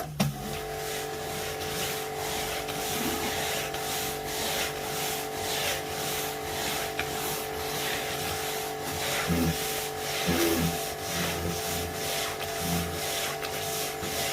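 Wilks USA RX 550i electric pressure washer running under load, its motor and pump giving a steady two-note whine over the hiss of the high-pressure water jet on paving, the hiss pulsing as the spray moves.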